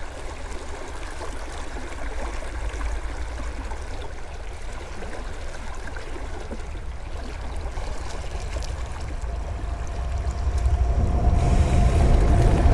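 Creek water gurgling close to the microphone. About ten seconds in, a passing train's rumble builds and grows loud, with a steady high tone over it.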